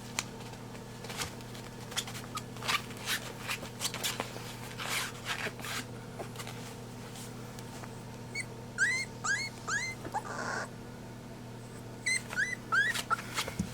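Three-week-old Pembroke Welsh Corgi puppy whimpering in short, high squeaks, two quick runs of about four each in the second half. Before them, soft scattered clicks and rustles over a steady low hum.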